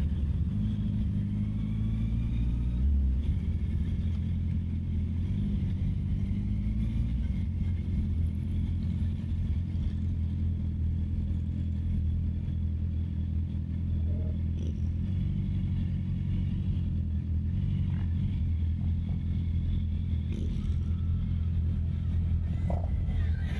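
Honda CB650R's inline-four engine running at low revs, its low note holding fairly steady with small rises and falls in pitch.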